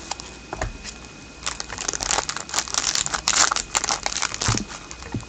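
Plastic trading-card pack wrapper crinkling as it is handled and worked open, in a run of irregular crackly rustles starting about a second and a half in.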